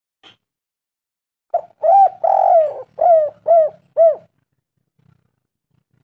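A spotted dove (tekukur) cooing one song phrase. A short opening note leads into a long slurred coo, then three short arching coos about half a second apart.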